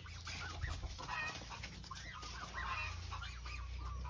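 Birds calling in quick runs of short, repeated notes, over a low steady rumble.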